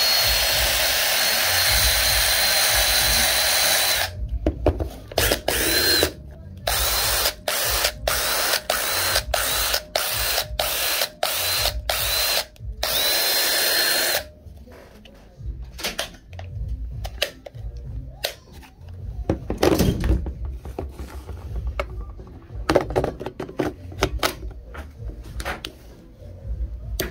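Porter-Cable PCC641 20V cordless impact driver running with a high motor whine for about four seconds, then pulsed in quick short bursts about twice a second, then run once more for over a second. For the rest there are only quieter clicks and rubbing of the tool being handled.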